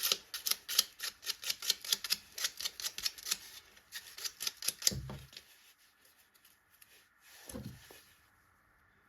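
A rapid series of sharp clicks, about four or five a second, that thins out and stops about four seconds in. Two dull low thuds follow, a couple of seconds apart.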